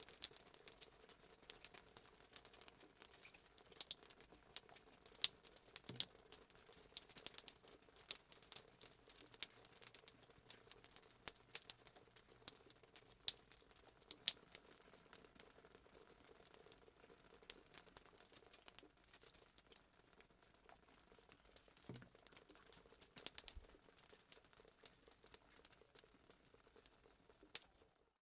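Faint fireplace sound effect: a wood fire crackling, with irregular sharp pops over a low steady hiss.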